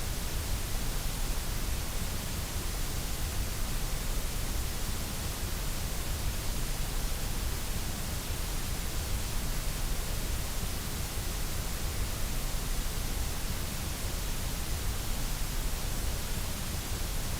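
Synthesized white noise playing as one steady, unchanging hiss with no breaks or pattern. It is strongest in the deep low end and in the high hiss.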